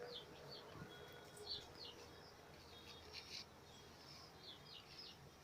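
Near silence with faint birds chirping: scattered short, high notes that slide downward.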